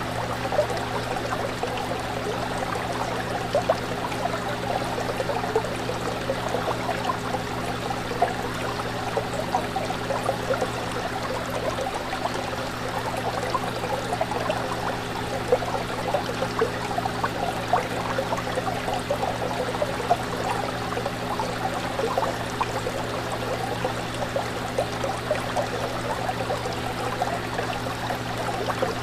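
Fish tank water bubbling and trickling continuously, with many small splashy pops, over a steady low hum.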